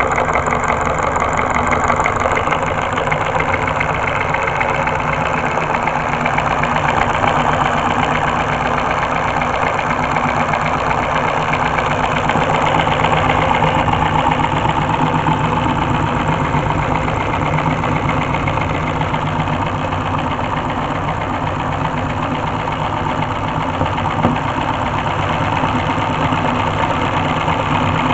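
Homemade four-cylinder solenoid engine running steadily, a dense, rapid mechanical clatter from its pulsing solenoids and reciprocating linkage.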